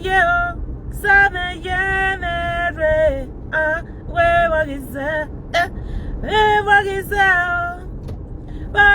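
A woman singing without accompaniment, in long held notes that step and slide in pitch, over the steady low rumble of a car driving.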